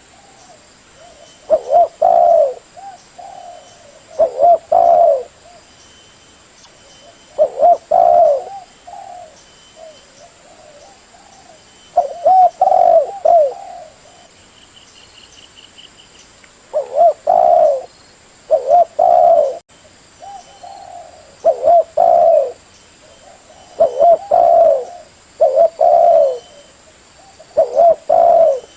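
Spotted dove cooing: about ten loud phrases of a few short, throaty notes each, repeated every two to four seconds.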